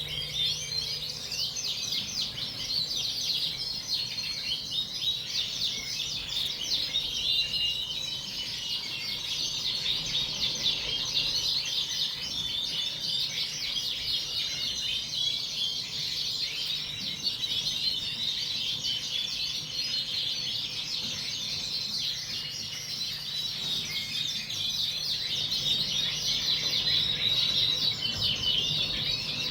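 A flock of Yorkshire canaries chirping and singing together in a dense, unbroken chatter of high calls.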